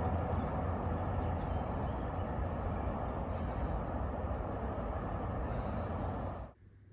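Steady low rumble with a hiss above it, like a vehicle in motion, cutting off abruptly about six and a half seconds in.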